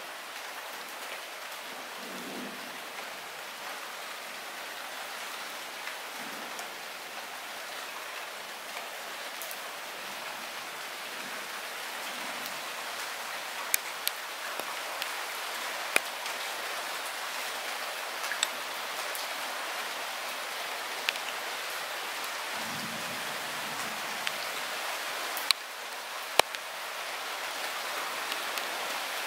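Light rain falling steadily, a soft even hiss that grows slightly louder through the stretch. Now and then single louder drops tick sharply on a nearby surface.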